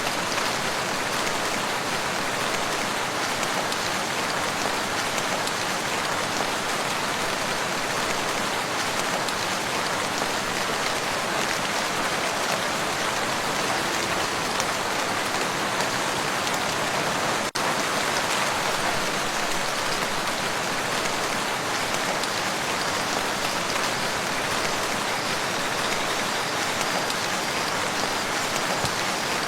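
Steady rain falling on a lake's surface, an even hiss of many drops, with a split-second dropout a little past halfway.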